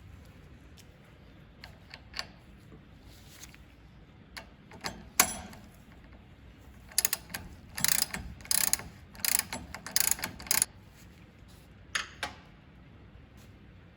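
Small hard parts of an angle grinder clicking and rattling as they are handled and fitted, in irregular groups of sharp clicks. There is one loud click about a third of the way in and a busy run of clicks past the middle.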